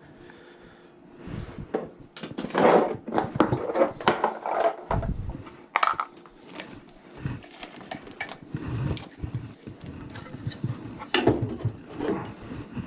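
Irregular knocks, clicks and scrapes of tools and metal parts being handled while working on a furnace.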